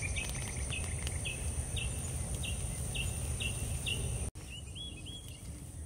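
Outdoor garden ambience: a bird repeats a short chirp about every two-thirds of a second over a steady high insect hum and a low rumble. About four seconds in the sound cuts off abruptly and resumes with a different, quicker run of chirps.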